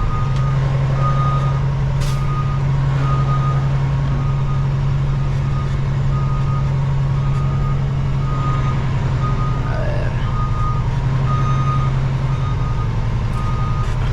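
Diesel semi-truck engine running with a steady low drone, and a backup alarm beeping about once a second over it.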